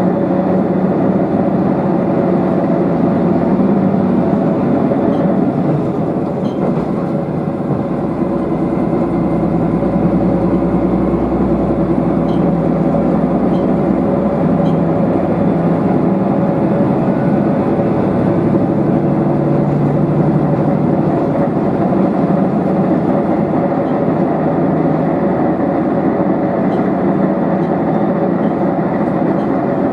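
Diesel railcar running along the line, heard from inside the car: a steady engine hum over wheel and rail rumble, with a deeper low swell about ten seconds in.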